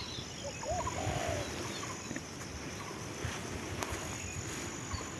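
Faint cooing of spotted doves over a steady outdoor background hiss, with some low bumps.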